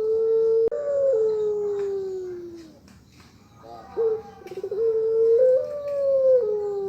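Puter pelung, a domestic barbary dove kept for its long coo, cooing twice in the long high-pitched 'ngelik panjang' style. The first coo, already held at the start, steps up and slides down in a long falling tail; about four seconds in, the second opens with a quick stutter of notes, holds a steady note, steps up, then falls away in another long slide.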